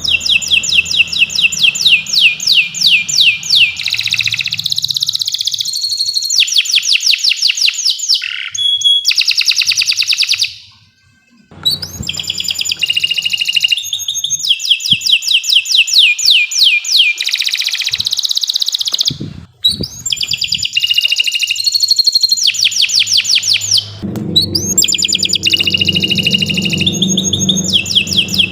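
Domestic canary singing a long, continuous song: fast trills of rapidly repeated high notes alternating with steadier rolling phrases. There is a brief pause about eleven seconds in and a shorter break near twenty seconds.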